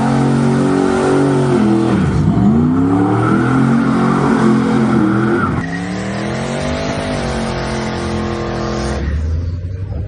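Twin-turbo LS V8 of a 1932 Chevrolet sedan rat rod revving and accelerating, its pitch climbing and falling, with the sound changing abruptly about halfway through and again near the end.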